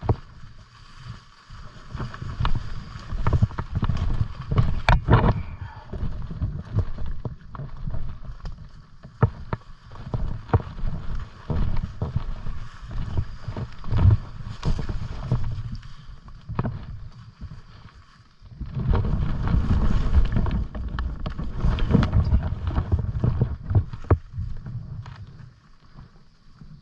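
Footsteps and rustling through brush, with irregular snaps of twigs and a low rumble of wind or handling on the microphone that comes and goes.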